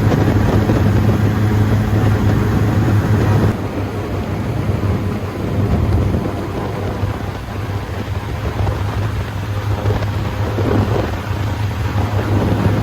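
Airboat's engine and air propeller running with a steady low drone. About three and a half seconds in the drone eases and rushing wind noise takes over, and the drone rises again near the end.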